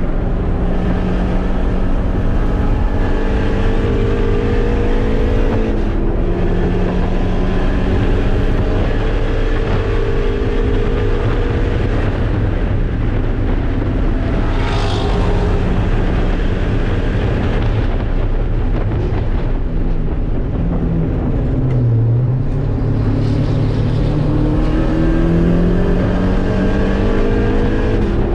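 A race-prepared car's engine heard from inside its caged cabin, running hard around a track. The engine note climbs through the revs and drops sharply at a gear shift about six seconds in, climbs again, falls away and stays low for a few seconds about two-thirds of the way through, then climbs once more near the end.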